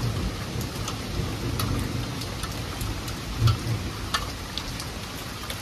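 Steady heavy rain falling on garden trees, with scattered sharp drop ticks close by. A brief low thump about three and a half seconds in.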